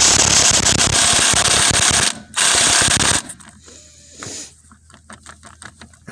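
Socket wrench working a nut on the tractor's steering drag link: a loud rapid rattle for about two seconds, a brief second rattle, then slower, quieter ratchet clicks near the end.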